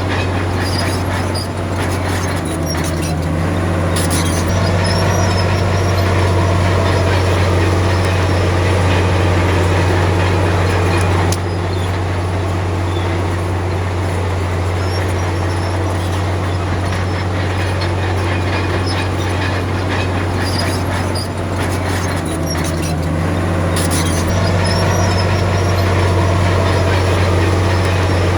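Komatsu D53P crawler bulldozer's diesel engine working steadily under load, with clanking and squeaking from its steel tracks. The engine grows louder about four seconds in and again near the end.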